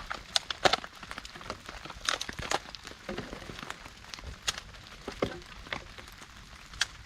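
Dry wood cracking and snapping: irregular sharp cracks, a dozen or so, a few with more body, over a faint steady patter.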